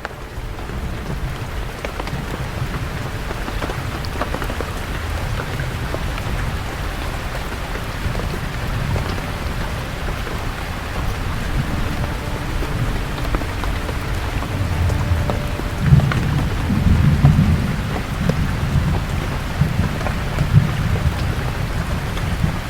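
Steady rain falling on forest leaves, with low thunder rumbling underneath that swells about sixteen seconds in.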